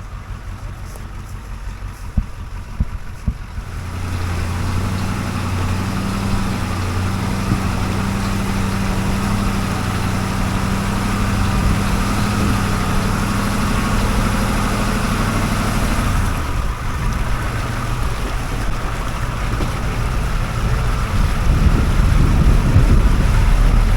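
Off-road vehicle engine running under load while the vehicle tries to climb off a tree its tire is hung up on. A few knocks come early. The engine comes in about four seconds in and holds a steady note, then turns rougher about two-thirds through and grows louder near the end.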